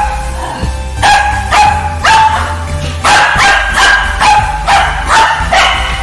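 A dog barking repeatedly, about two barks a second, over background music.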